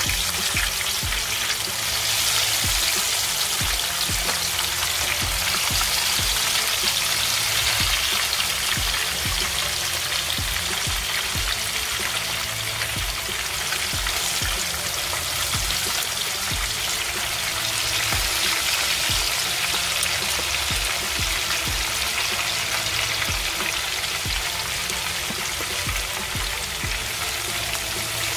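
Chicken wings deep-frying in hot vegetable oil in a pan: a steady, dense sizzle and crackle as more wings go into the oil. Background music with a steady beat plays underneath.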